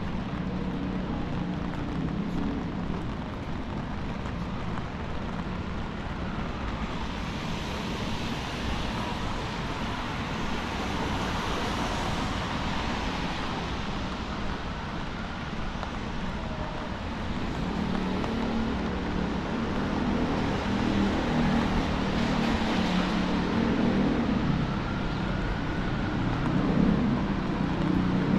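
Traffic passing on a wet city street. Tyre hiss from passing cars swells and fades twice, and a lower engine rumble builds toward the end.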